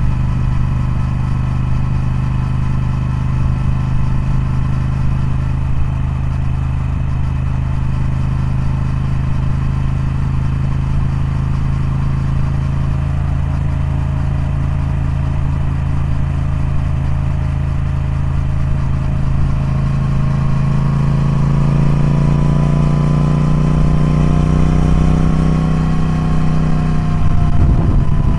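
Triumph Speed Twin parallel-twin engine running steadily, then slowly rising in pitch over the last several seconds, with a sudden change right near the end.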